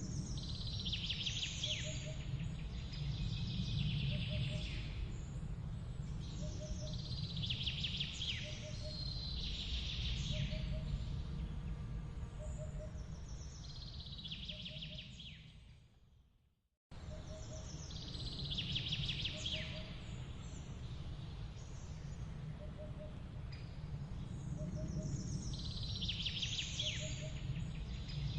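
Outdoor nature ambience: a songbird sings a short, falling, high phrase every two to three seconds, with a faint repeated double note lower down and a steady low rumble underneath. The sound fades out about halfway through, stops briefly, then cuts straight back in with the same pattern.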